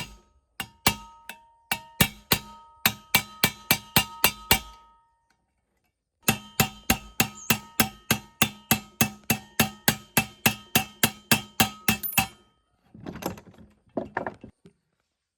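A hammer striking metal in quick, evenly paced blows, about three a second, each one ringing briefly. There are two runs of blows with a short pause between them, then a brief scrape of metal being shifted.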